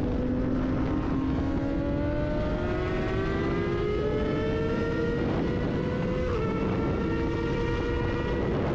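Sport motorcycle engine held at high revs on a racetrack, its note climbing slowly, with a short break and drop about six seconds in like a gear change, then running on steadily. A constant wind-and-road rush lies underneath.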